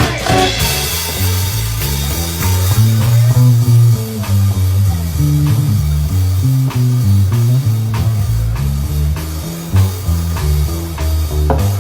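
Band playing an instrumental stretch of a blues-rock song: guitar over a prominent bass line moving note to note, with drum kit keeping a steady beat and no singing.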